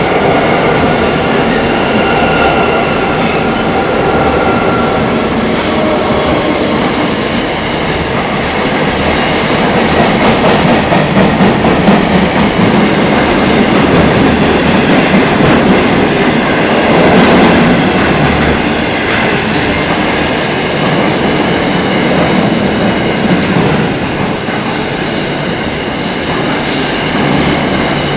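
A freight train passing close by: the trailing NSW 81 class diesel-electric locomotives go by first, with a steady whine in the first few seconds, then a long rake of container wagons rolls past with continuous wheel clatter and rumble.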